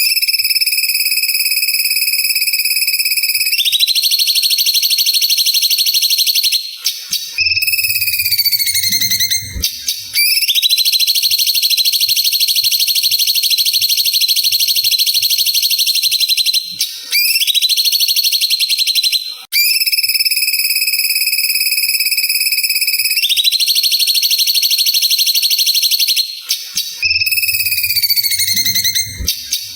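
Cucak ijo (green leafbird) of the cungkok type singing a loud, high-pitched, fast continuous trill. Brief breaks with downward-gliding notes come between long phrases, and the same passage repeats about every twenty seconds.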